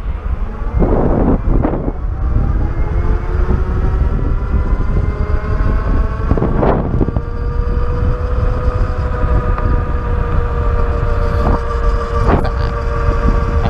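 Ariel Rider X Class 52V electric bike's motor whining, rising in pitch for the first several seconds as the bike speeds up, then holding steady. Underneath is a low rumble of wind on the microphone, with a few brief knocks.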